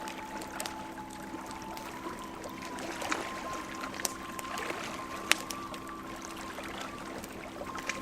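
Bonfire crackling with scattered sharp pops over a soft rushing bed, with a low steady hum and a thin held tone that steps up slightly in pitch about three seconds in.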